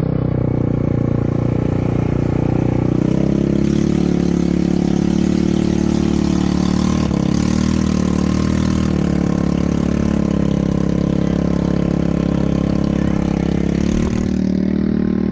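ATV engine running steadily. Its pitch shifts about three seconds in and again near the end.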